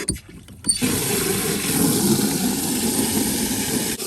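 Water running hard into a container as it is filled, a steady rush that starts abruptly about a second in and drops to a lower rush near the end.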